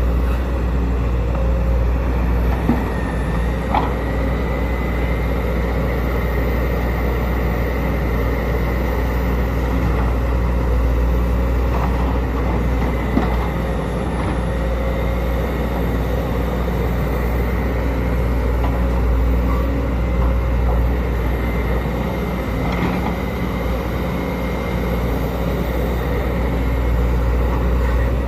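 Sumitomo SH210LC hydraulic excavator's diesel engine running steadily with a deep drone and a high whine above it, with a few short knocks.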